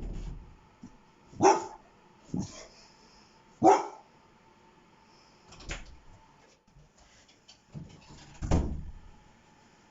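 A dog barking in single, separate barks, five in all, with a second or more of quiet between them; the last bark sounds deeper and a little longer.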